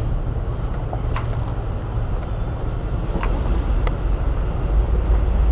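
Classic car's engine running with a steady low rumble, growing louder near the end.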